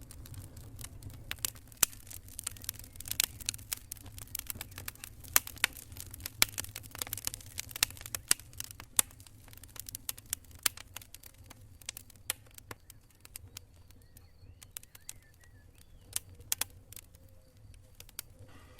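Burning wood campfire crackling, with rapid sharp snaps and pops that are dense in the first half and thin out later, over a low steady rumble.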